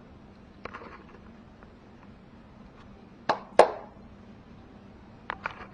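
Two sharp knocks of hard objects striking, about a third of a second apart, a little over three seconds in, after a few light clicks. A faint steady hum runs underneath.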